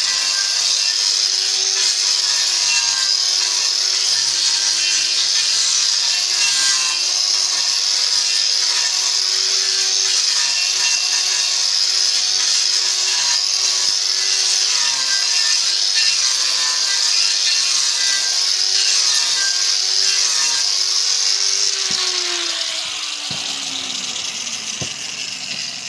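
Power saw cutting wood, its motor pitch dipping and recovering with the load. About 22 seconds in it is switched off and winds down, the pitch falling as it fades.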